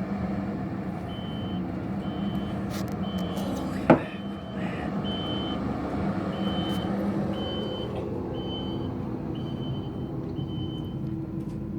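Skid steer loader's diesel engine running while its backup alarm beeps steadily in reverse, as it clears snow. A single sharp bang sounds about four seconds in.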